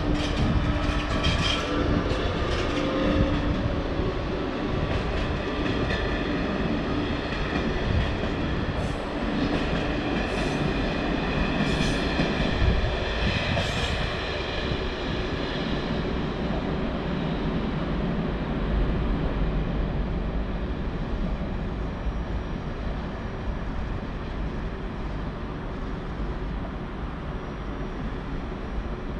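A train moving through a station, its wheels running on the rails with a steady low rumble. High ringing tones sound through the first half, with four short high squeals between about nine and fourteen seconds in, then die away, leaving only the rumble.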